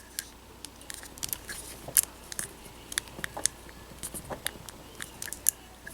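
Hard plastic action figure and its accessories being handled: a string of small, irregular clicks and taps, loudest about two seconds in.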